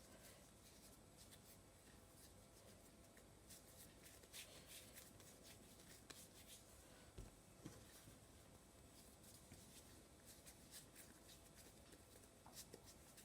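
Near silence, with faint soft rubbing and a few light taps scattered through it, as dough is rolled by hand into small balls.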